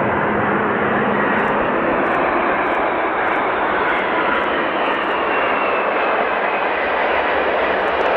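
Three-engined jet airliner's engines: a loud, steady rush of jet noise with a faint whine that slowly falls in pitch.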